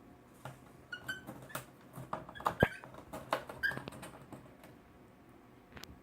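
Cockatiels' feet and beaks tapping and scratching on household objects: a quick, irregular run of small clicks and scrapes, busiest around the middle and tailing off, with one last click near the end.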